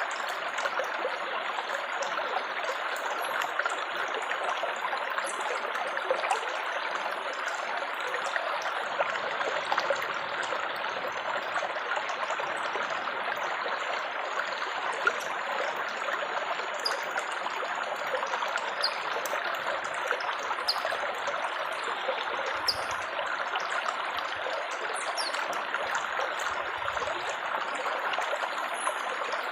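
Water trickling and babbling steadily, an even rush with small splashes scattered through it.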